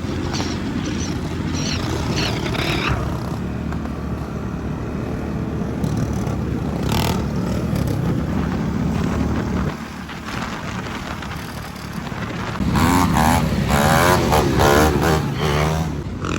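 Dirt bike engines running, pitch rising and falling with the throttle. They drop back briefly near the middle, then rev louder about three-quarters of the way in.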